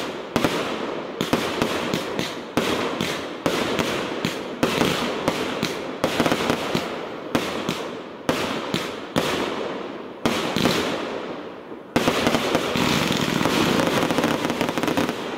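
Firework compound cakes firing shot after shot, roughly one launch a second, each with a bang and a trailing crackle of the bursting stars. About twelve seconds in the firing turns into a dense, unbroken run for about three seconds before it stops.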